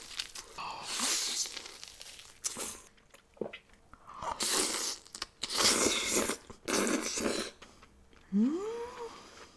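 Close-miked biting and chewing of food in a run of loud bursts. Near the end the eater gives a short hum that rises in pitch.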